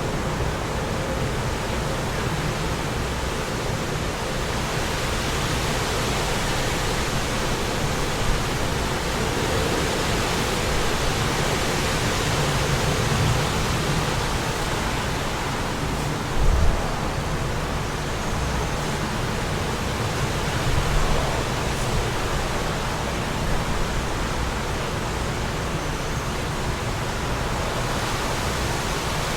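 Steady wind rushing, an even noise with no pattern. About halfway through there is a brief low thump.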